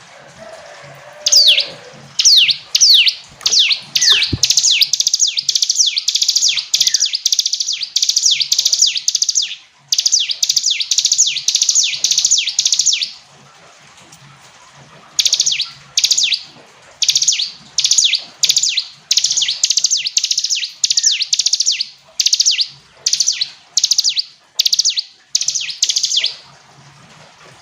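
Ciblek gunung (a prinia) singing: long, fast runs of high, clear chirps, each note sweeping downward, with a pause of a couple of seconds about midway before the song starts again.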